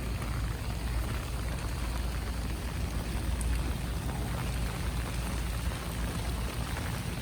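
Steady rain falling and pattering on the street, over a low, continuous rumble of city traffic.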